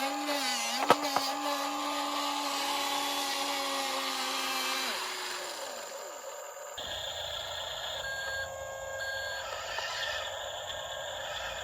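Small electric motor of an RC dump truck whining at a steady pitch, with a sharp knock about a second in. The whine fades out around five seconds in, and a noisier sound with no steady pitch takes over abruptly near seven seconds.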